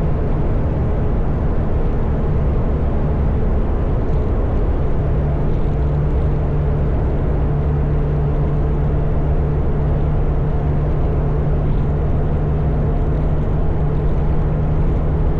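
Motorcycle engine running steadily at cruising speed, with wind and road noise, as heard from on the bike. The engine note steps slightly lower about four to five seconds in.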